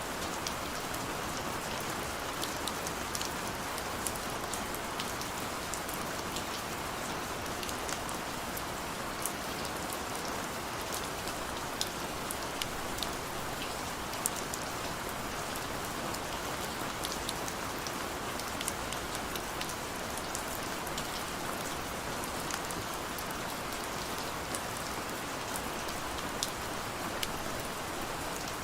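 Heavy rain falling steadily, a constant hiss with many small drop impacts pattering through it.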